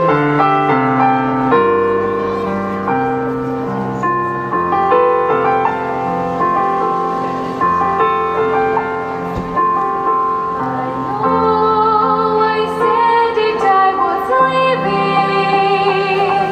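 Piano introduction with sustained chords and a melody line, then a girl's classically trained singing voice, with vibrato, enters about two-thirds of the way through.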